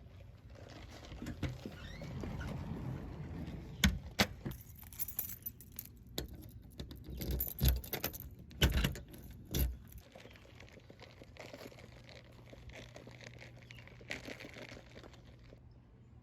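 Close-up handling noises: rustling with a handful of sharp clacks and knocks clustered in the middle, like small hard objects or keys being picked up and set down, then a fainter steady background near the end.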